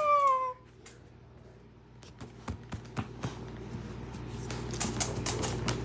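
A drawn-out vocal sound trails off in the first half second. After a short lull, quick irregular clicks and taps from a dog start about two seconds in and grow busier toward the end.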